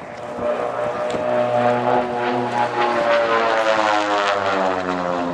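Propeller-driven Van's RV-8 light aircraft flying past, the engine and propeller drone falling slowly in pitch as it passes.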